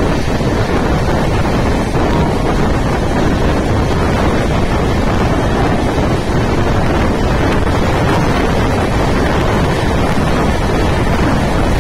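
Wind buffeting the microphone over the running noise of a moving Mumbai suburban local train, a loud, even rush that does not let up.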